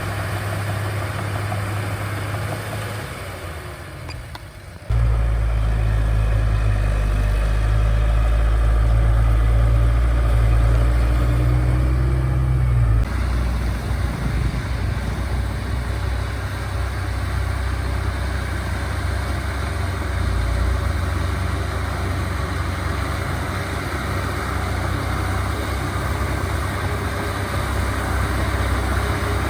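Diesel engines of heavy earthmoving machinery running steadily with a deep rumble. The sound fades a little, jumps abruptly louder about five seconds in, and changes abruptly to a slightly different engine sound at about thirteen seconds.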